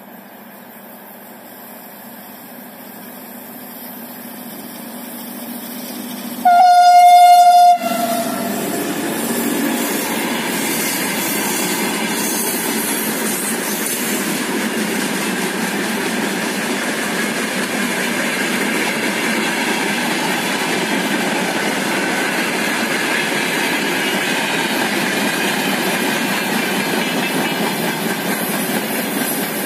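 Siemens ER20CF diesel locomotive approaching with a freight train, its sound growing steadily louder, then one horn blast of about a second, the loudest sound here. After the horn the wagons roll past with a steady rolling noise and wheel clatter over the rail joints.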